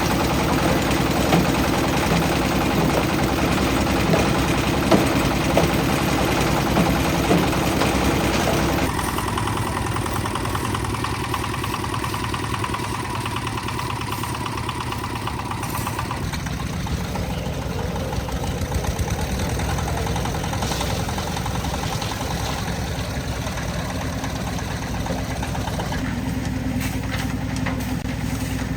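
Engine of a concrete mixer running steadily. The sound changes abruptly about nine seconds in and again around sixteen seconds.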